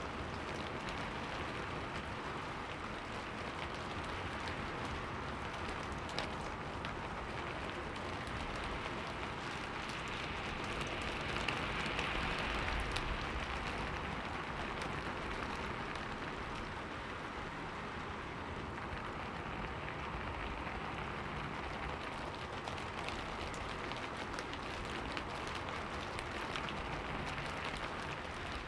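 Steady rain falling on a window pane, a continuous hiss dotted with small ticks of individual drops, growing heavier for a couple of seconds about halfway through.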